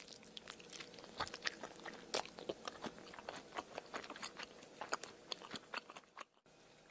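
A person chewing a mouthful of corn cheese: many irregular crunchy clicks, several a second, which stop abruptly about six seconds in.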